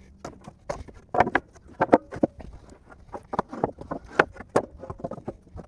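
Two-by-four boards being stacked by hand, knocking and clattering against one another in an irregular string of sharp wooden clacks.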